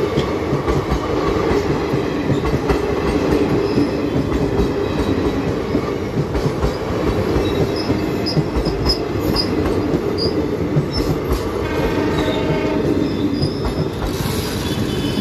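Indian Railways passenger coaches rolling past close by: a steady loud rumble with repeated clacks of the wheels over the rail joints. About twelve seconds in, a brief pitched tone rises above the rumble.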